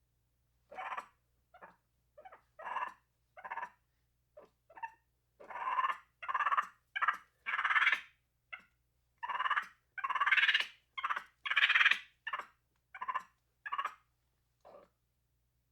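A series of about twenty short animal calls, one after another with brief silences between them, growing louder toward the middle and fading again near the end.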